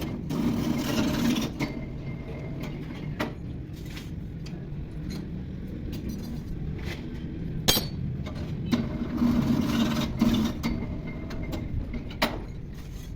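A tractor engine running steadily, with sharp metallic clinks and knocks every few seconds and two brief louder rattling stretches.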